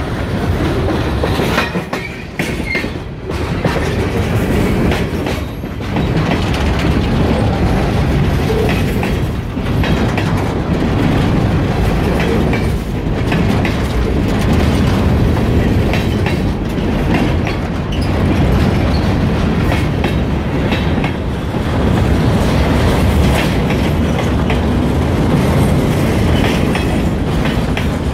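Freight cars rolling past, a steady rumble and rattle with the wheels clicking over rail joints.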